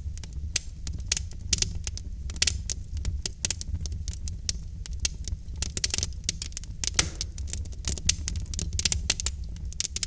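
Logs burning in a fireplace: a wood fire crackling, with many irregular sharp pops and snaps over a steady low rumble of the flames.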